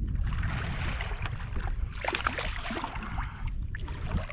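Water splashing and churning with short sharp splashes as a hooked fish is fought at the side of the kayak, over a steady low rumble of wind on the microphone.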